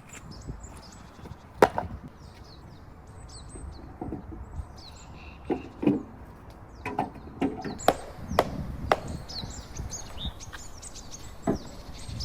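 Irregular sharp chopping strikes on wood, about ten in all and the loudest about a second and a half in, with birds chirping throughout.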